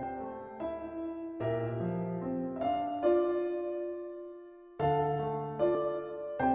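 Piano playing a slow, gentle passage of chords and single notes, each struck note ringing and fading away; one long note dies out near the middle before new chords come in.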